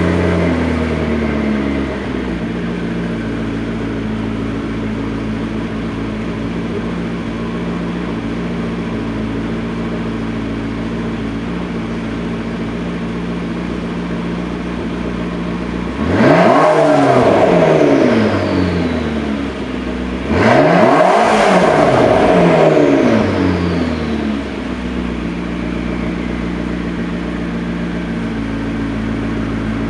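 McLaren MP4-12C Spider's 3.8-litre twin-turbo V8 with sport exhaust, parked and running: its idle drops from a fast idle just after starting and then holds steady. About halfway through it is revved twice, a few seconds apart, each rev climbing and falling back to idle.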